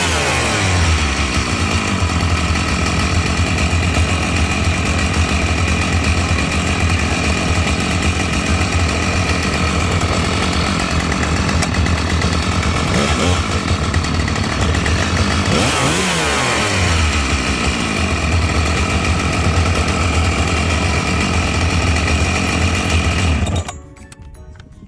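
Husqvarna 572XP two-stroke chainsaw engine running on test after a cylinder replacement. The revs drop and climb again a few times, and the sound cuts off sharply near the end.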